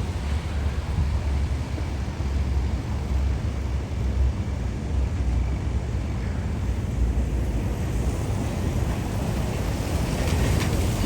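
Uneven low rumble of street ambience, with wind buffeting the microphone over distant traffic. About ten seconds in, a hiss swells, as a vehicle's tyres pass on the rain-wet street.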